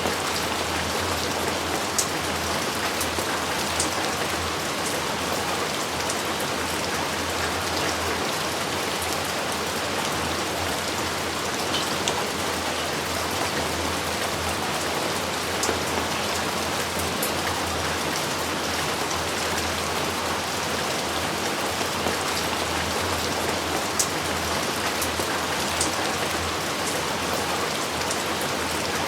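Steady heavy rain falling, an even hiss with scattered sharp drop impacts close to the microphone.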